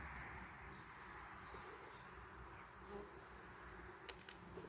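Faint, steady humming of a colony of honeybees at an opened hive. A few small sharp clicks come about four seconds in.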